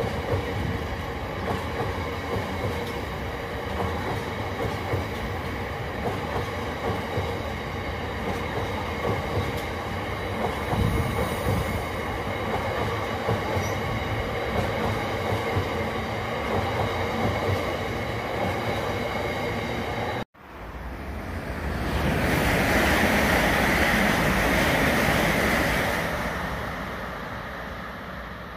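Freight train of bogie hopper wagons rolling past, its wheels clattering over the rail joints with a faint steady squeal. About twenty seconds in the sound cuts off, and a louder rushing noise swells and then fades.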